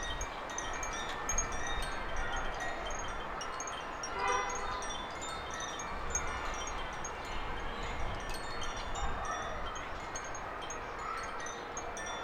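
Wind chime tinkling with many short high notes, over a low wind rumble.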